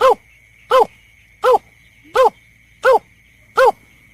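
Bird-lure recording of the berkik (belkek) call: a short hooting note that drops in pitch, repeated evenly about every three quarters of a second, six times, over a faint steady high whine.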